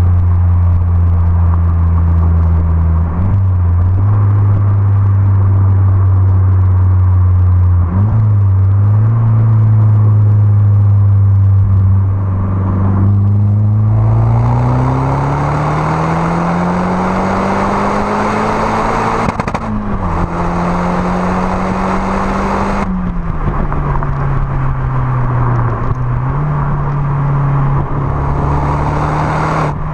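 Peugeot 207 RC's exhaust, its turbocharged four-cylinder running at a steady drone, then pulling with the engine note rising slowly for several seconds before dropping suddenly about two-thirds of the way through, like a gear change, and settling lower again.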